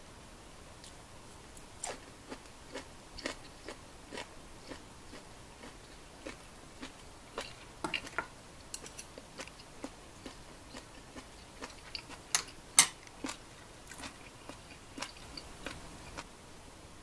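A person chewing food close to the microphone: irregular wet clicks and smacks, roughly one or two a second, with two louder ones about three-quarters of the way through.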